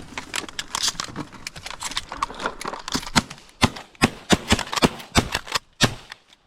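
Rapid, irregular clicks, knocks and rustling close to the microphone, several a second, easing off near the end: handling noise.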